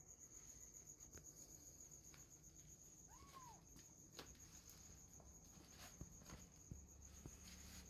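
Near silence, with a faint, steady, high-pitched pulsing tone and a few soft ticks. A little after three seconds in, one faint, short kitten mew rises and falls.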